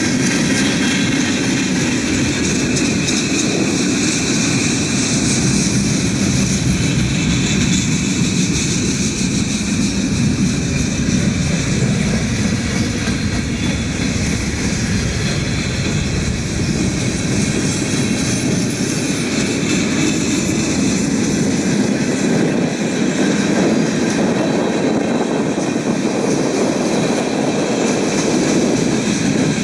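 Freight cars of a passing train rolling by, a steady rumble and clatter of steel wheels on the rails with a thin, steady high ring over it.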